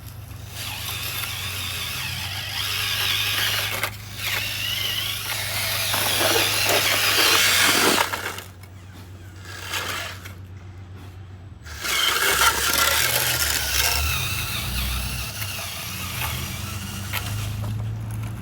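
Small electric motors and gearboxes of radio-controlled construction models whining, their pitch rising and falling as they work, with a quieter stretch of about three seconds in the middle.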